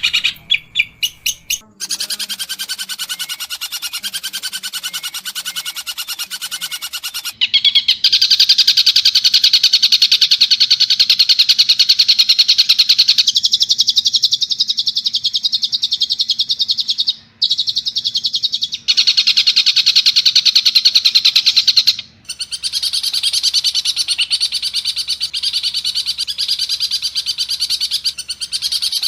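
Long-tailed shrike (pentet) singing a fast, harsh chattering song with mimicked calls of other birds. The recording is spliced from several takes and cuts off abruptly a few times.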